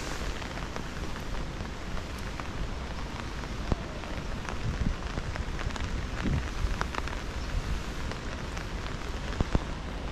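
Steady rain falling, with a few sharper, louder drop taps close by and a low rumble underneath.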